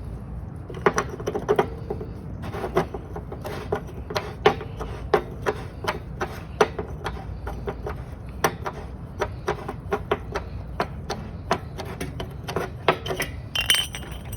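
Irregular sharp metallic clicks and taps, about two or three a second, each with a short ring: metal tools and parts being handled while a water heater's heating elements are worked on.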